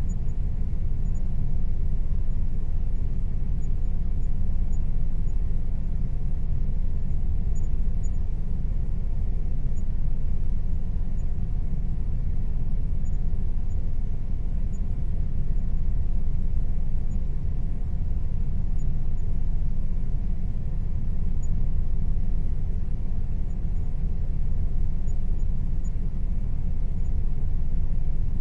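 Air conditioner running steadily, a constant low rumble and hum with a faint steady tone above it.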